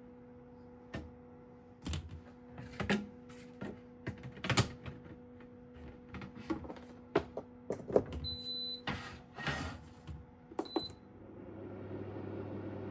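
Food dehydrator being set up: a run of knocks and clicks, two short electronic beeps from its controls, then its fan starting about eleven seconds in with a steady whir.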